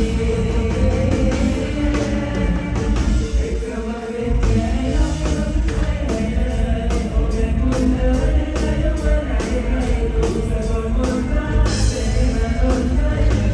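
Live mor lam band music with a steady drum beat and a singing voice.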